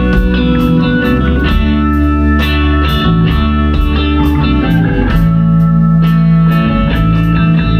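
A live rock band playing an instrumental passage: electric guitar over bass and drums, with steady cymbal hits.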